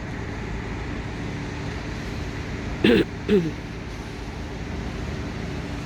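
Steady mechanical drone of flood-water pumps running continuously. About three seconds in, a person's voice makes two short sounds over it.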